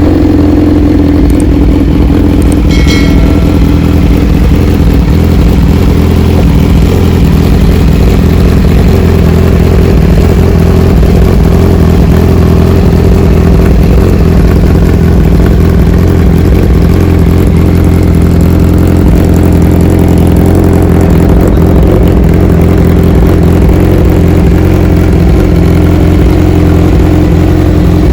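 Kawasaki Z1000 Sugomi's inline-four engine idling steadily and loud through an aftermarket Austin Racing exhaust.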